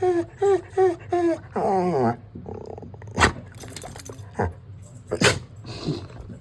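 A dog giving a quick run of short high barks, about two a second, then a longer wavering whining call. After that come a few sharp knocks.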